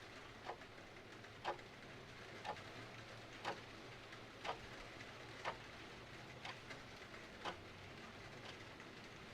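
Mechanical clock ticking about once a second over a faint, steady patter of rain.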